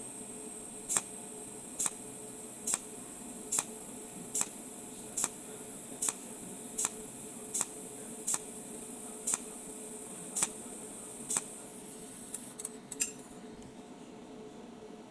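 Cold welding machine firing its welding pulses with 0.8 mm wire: a sharp tick about once every 0.8 seconds, about a dozen in all, over a steady hum and high whine from the machine. The regular ticks stop about 11 seconds in, and a few quicker, lighter ticks follow soon after.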